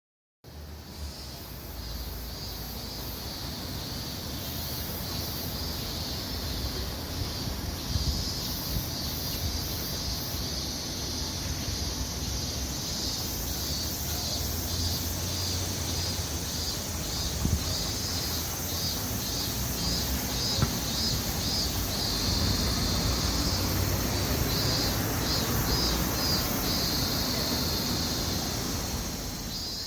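Cicadas singing in chorus: a continuous high buzz with a layer that pulses rapidly, over a low background rumble. It starts abruptly about half a second in.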